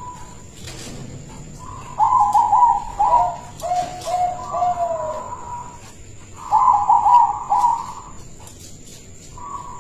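Zebra dove (perkutut) cooing: two phrases of quick stepped notes, the first about two seconds in and ending in a run of lower notes, the second about six and a half seconds in. A faint steady high whine runs underneath.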